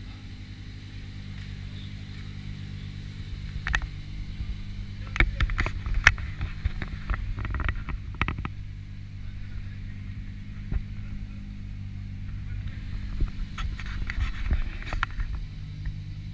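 Lamborghini Aventador SVJ's 6.5-litre V12 idling steadily, at an even pitch with no revving. Irregular sharp knocks and rustles come over it, loudest about five to six seconds in.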